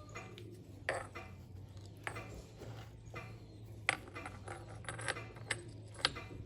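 Light metallic clinks and taps, about six of them at irregular intervals, as metal parts or tools are handled, over a faint steady hum.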